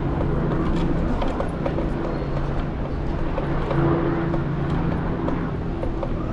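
City street traffic heard from a moving electric scooter, with a steady low engine hum and scattered small clicks and rattles.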